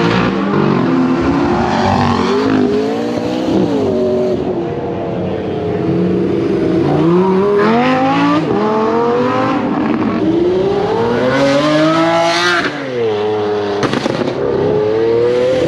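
Sports car engines revving and accelerating away one after another, the pitch climbing with each pull. The longest pull comes about three quarters of the way through and drops off sharply.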